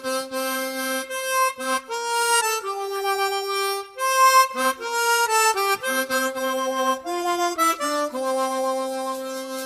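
Harmonica playing a melody of held notes that change every half second to a second or so, often sounding two notes at once.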